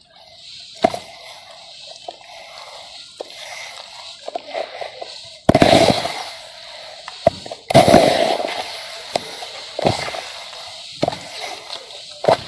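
Dry sand-cement chunks being crumbled, with sharp crackling snaps and two longer, louder bursts of crumbling about halfway through and again about two seconds later.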